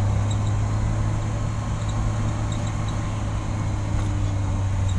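A vehicle's engine runs with a steady low drone while travelling along the road, over even road noise.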